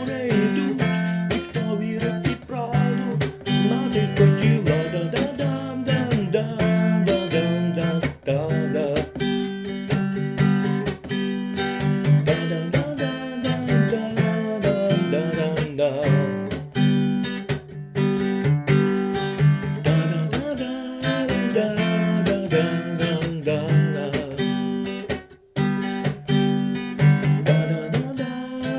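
Acoustic guitar strumming chords steadily in an instrumental passage of a song, with a brief break about 25 seconds in.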